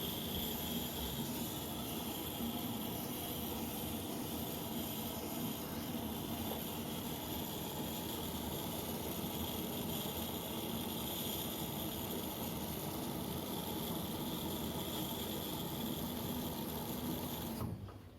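AEG LTX7CR562 top-loading washing machine running with a steady hiss of water over a low hum, cutting off suddenly near the end.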